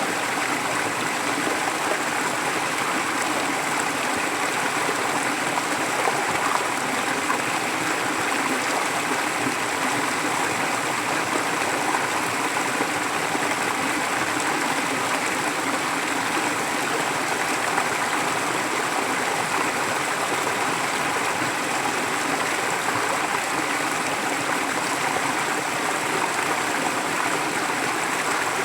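Forest stream flowing, a steady, unbroken rush of running water.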